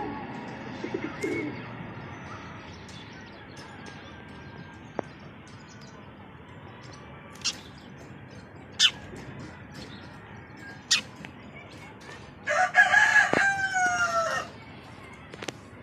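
A rooster crows once near the end, a loud call of about two seconds that falls slightly in pitch at its close. A few short, sharp chirps or clicks come earlier over a low background.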